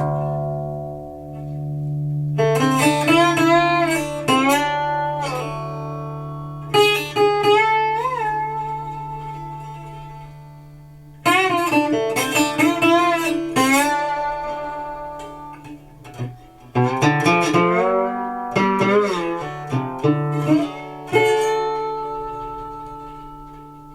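Recording King Swamp Dog parlor resonator guitar played with a slide in open D tuning: about five short blues phrases of gliding notes over a low open string left ringing, each phrase fading before the next.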